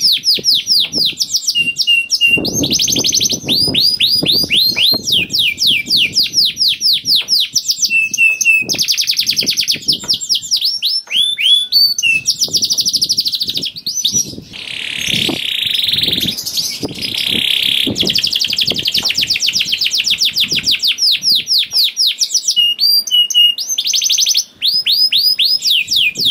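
Domestic canary singing without a break: fast rolling trills of rapidly repeated falling notes that switch from one pattern to the next every few seconds, with a harsher, buzzy passage about halfway through.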